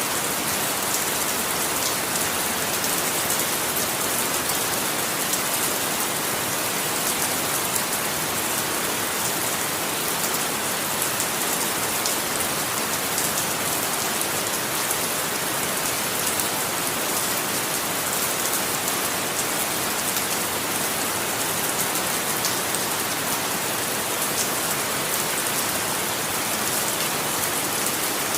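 Steady heavy rain falling, an even hiss with fine pattering drops and no changes.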